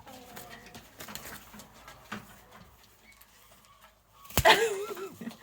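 Poultry pecking rapidly at dry feed, a quick patter of beak taps, then a sharp knock about four seconds in followed by a short bird call.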